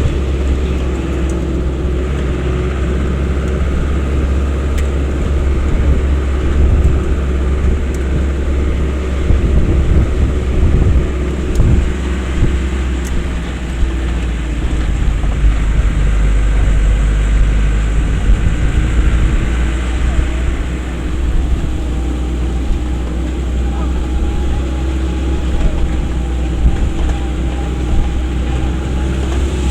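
Vehicle engine running with a steady low road rumble while driving. The engine tone shifts in pitch a little now and then.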